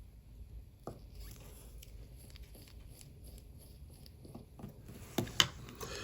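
Faint clicks and scrapes of metal watchmaker's tools handling small watch-movement parts, with two sharper clicks a little after five seconds.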